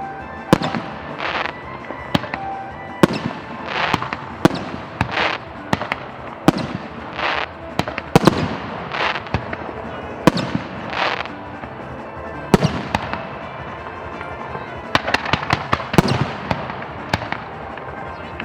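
Fireworks bursting in a dense, irregular run of sharp bangs mixed with short hissing bursts, with music playing underneath.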